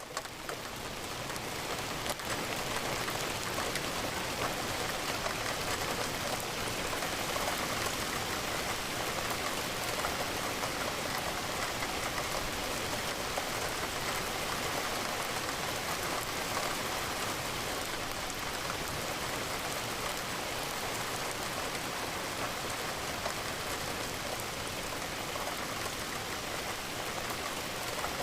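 Steady rain, an even hiss of many drops that does not let up. It cuts out for an instant right at the start.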